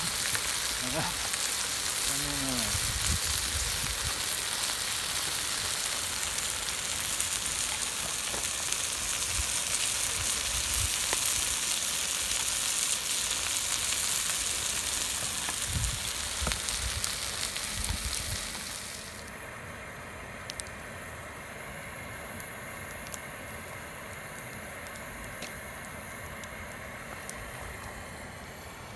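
Food sizzling on a hot iron griddle plate. About two-thirds of the way through the sizzle drops abruptly to a much quieter hiss with a few light clicks.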